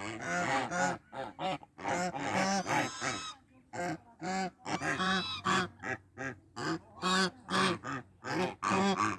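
Farmyard fowl honking: a fast run of loud, repeated calls, several a second, which stop suddenly at the end.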